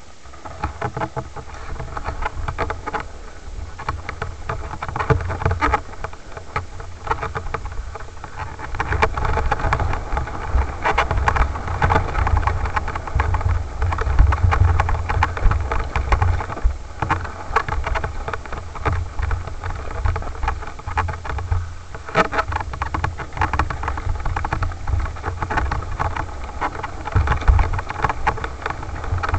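Off-road motorcycle engine running and revving up and down over a rough forest trail, with deep wind rumble and knocks from the bumps.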